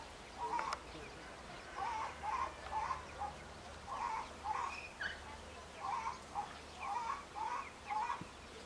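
A bird calling over and over in short phrases of two to four notes, each phrase a second or two apart, over a faint steady low hum.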